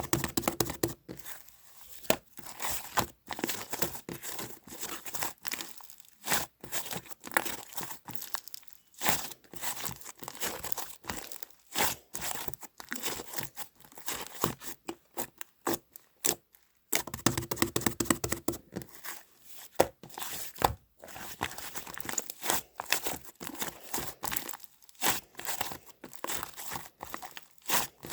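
Close, continuous crackling and crinkling handling noise made of many irregular sharp clicks, with a couple of brief pauses, one about six seconds in and another about sixteen seconds in.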